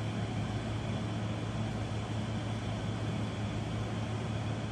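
Steady low hum with an even hiss, unchanging throughout: constant background machine noise.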